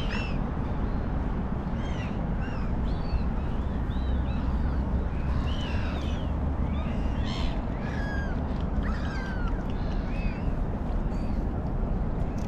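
Birds calling over and over, many short arching calls overlapping, with a longer downward-slurred call a little after the middle, over a steady low rumble.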